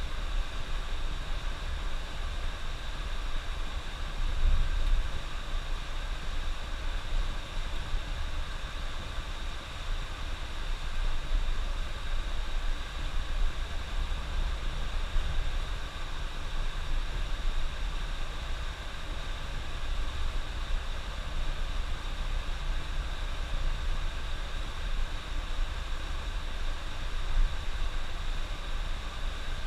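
Coach bus travelling on the highway: a steady low rumble of engine and road noise with a constant hiss over it.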